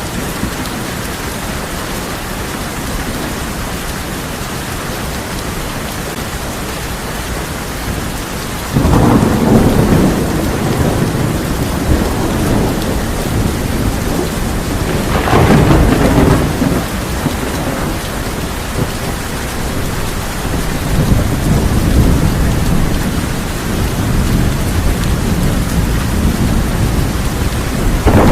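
Steady heavy rain falling on a tin roof, with thunder: a sudden loud clap about a third of the way in that rolls into low rumbling, a second loud peak around the middle, and further low rumbling through the last third.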